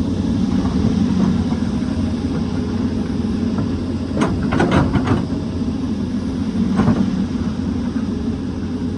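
Excavator diesel engine running steadily under working load. A cluster of sharp knocks comes about four to five seconds in, and a single knock two seconds later.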